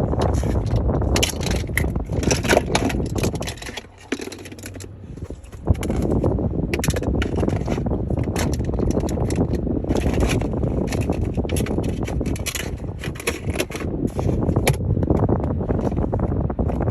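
Close handling noise: items being rummaged and moved about near the microphone, with rustling, scraping and many sharp clicks, a brief quieter spell about four seconds in that ends with a sharp click.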